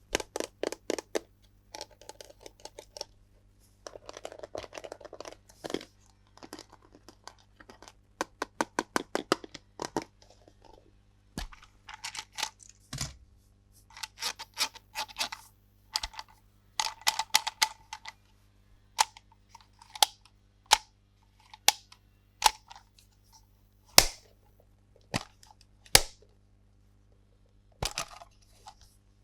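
Unboxing and handling of plastic toys and their packaging: a string of sharp clicks and taps with short spells of rustling, and a quick run of rattling clicks near the middle.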